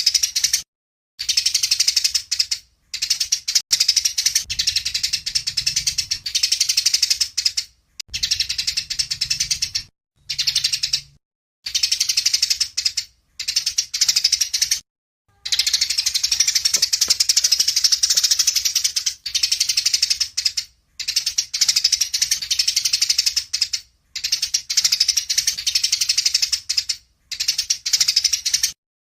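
A songbird singing a fast, high, chattering song in phrases of one to four seconds, each cut off abruptly by a short silence. This is an edited "masteran" bird-song recording, the kind played to caged competition songbirds to teach them.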